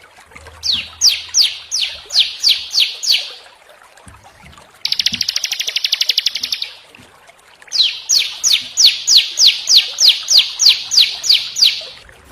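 Small songbirds singing in a birdsong tutor recording. A run of sharp, downward-sweeping notes comes about four a second, then a fast, buzzy trill about five seconds in, then a longer run of the same sweeping notes. These are the harsh rapid 'shots' that such a tutor recording is meant to teach.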